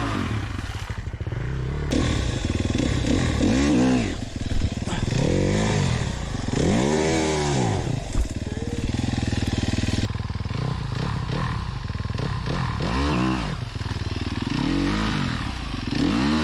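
Dirt bike engine on a trail ride, revving up and dropping back over and over, about every second or two, as the rider works the throttle. A steady rushing noise runs underneath.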